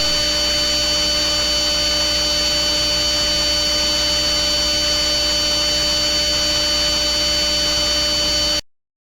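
Loud, steady electronic drone of several fixed pitches over a hiss, with a low hum underneath; it cuts off suddenly near the end.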